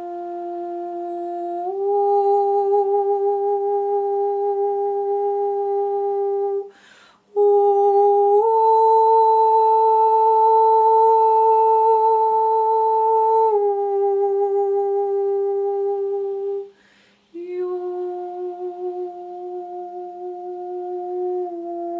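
A woman's voice humming long, held tones as sound-healing vocal toning. The pitch steps up slightly about 2 s in, higher again after a breath about 7 s in, then steps back down around 13 s and lower after a second breath about 17 s in, with a faint steady low tone underneath.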